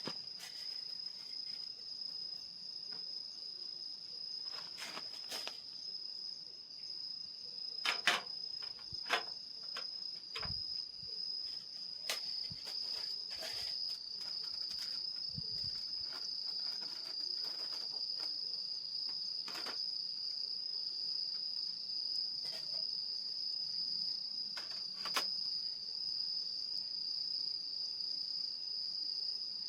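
Crickets chirring in one steady, high-pitched trill, with a wood fire in a small fire pit crackling and popping now and then, the sharpest pops about 8 seconds in and again near 25 seconds.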